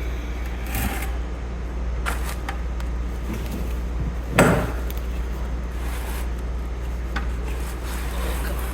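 A steady low hum with a few scattered knocks and clatters of objects being handled; the loudest is one sharp knock about four and a half seconds in.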